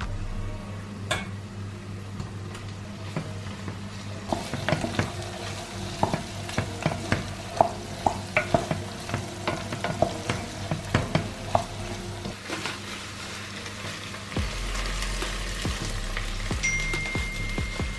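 Food sizzling in a frying pan while a utensil stirs and knocks against it in a quick run of clicks, then the sizzle carries on alone. A short high beep sounds near the end.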